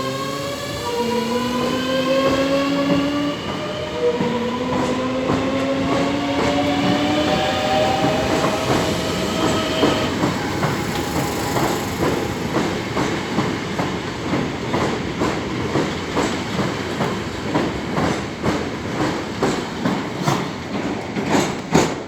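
Thameslink electric train pulling away. Its traction motors whine, rising in pitch in a few steps, then the wheels clatter more and more quickly over the rail joints as it picks up speed.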